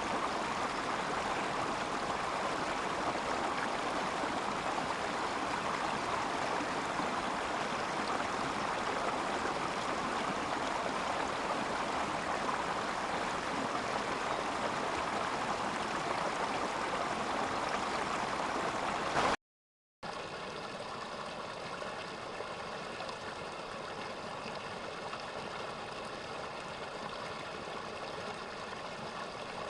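Mountain stream water rushing steadily over rocks. About two-thirds of the way through, the sound cuts out for a split second, then resumes somewhat quieter.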